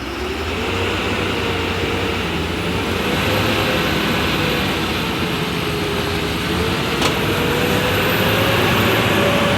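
Heavy diesel vehicle engine running hard, with a whine that slowly wavers up and down in pitch. There is one sharp click about seven seconds in.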